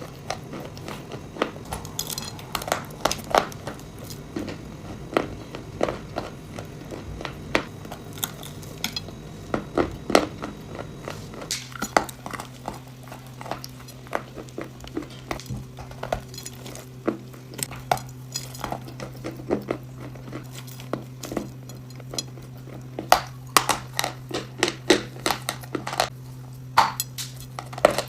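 Irregular sharp crunching and crackling of edible chalk, clay and nuts being bitten and broken, with a faint steady low hum underneath.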